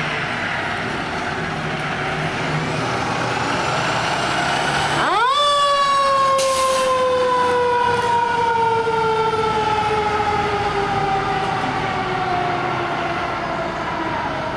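Fire truck's mechanical siren winding up sharply about five seconds in, then coasting slowly down in pitch, over the truck's engine and road noise. A short hiss comes just after the wind-up.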